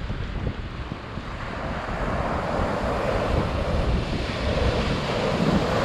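Ocean surf breaking and washing ashore, growing louder from about a second and a half in, with wind buffeting the microphone.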